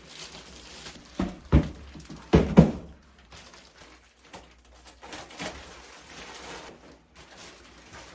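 A few dull thumps, two just over a second in and two more around two and a half seconds in, over faint background noise.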